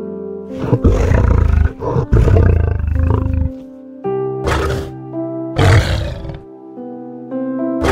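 Lion roaring over soft piano music: one long roar of about three seconds, then three shorter roars spaced about a second and a half apart.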